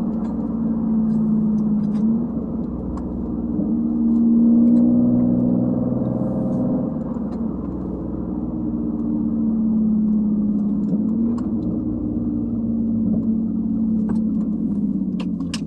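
2011 Nissan Maxima SV's 3.5-litre V6 with its mufflers and resonators cut off, pulling under light throttle in the CVT's manual mode. The exhaust note holds a mostly steady pitch, stepping briefly every few seconds, and swells in loudness about four seconds in.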